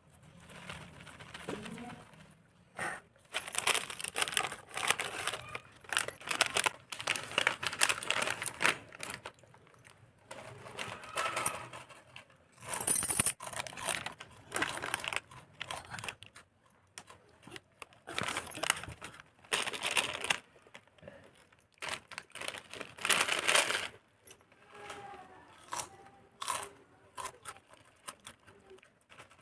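Plastic food wrappers crinkling and tearing close to the microphone in irregular bursts, mixed with crunchy eating of snacks.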